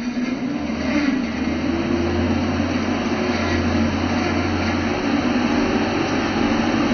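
Handheld hair dryer running steadily, a constant rush of blown air with a low motor hum.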